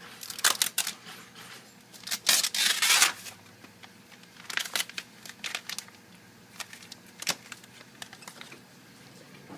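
Hands handling laptop parts during reassembly: scattered small clicks and taps, with a crinkling rustle lasting about a second, two seconds in.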